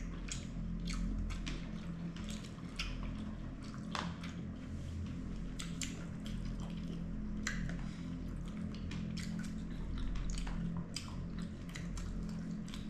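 Close-up eating sounds: chewing and wet squishy mouthfuls of seafood, with many small irregular clicks, over a steady low hum.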